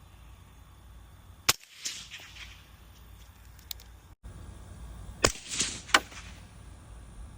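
Suppressed rifle shots through a Diligent Defense DTF STI suppressor: a sharp report with an echoing tail about a second and a half in, then two more sharp reports about five and six seconds in.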